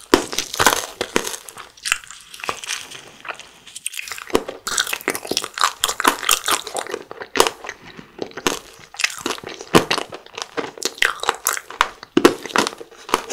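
Close-miked chewing of frozen fruit jelly candy, with many crisp crunches.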